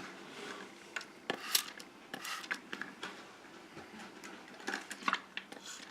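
Hand spray bottle misting a tarantula sling's enclosure in several short spritzes, with light clicks of plastic containers being handled.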